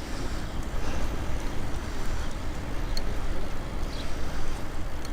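Steady low rumble and rushing noise of riding a bicycle along a path: wind on the microphone and tyres rolling over the surface, with a few faint ticks.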